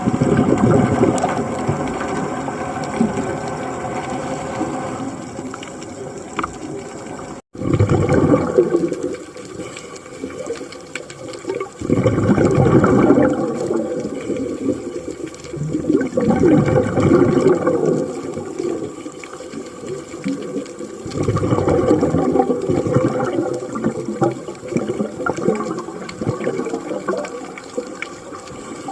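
Scuba diver's breathing heard underwater: exhaled bubbles gurgling out of the regulator in bursts of a few seconds, about every four to five seconds.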